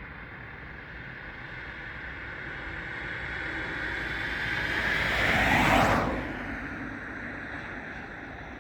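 Airliner passing close by, its whine and rush growing louder to a peak about six seconds in, then dropping sharply in pitch and fading as it moves away.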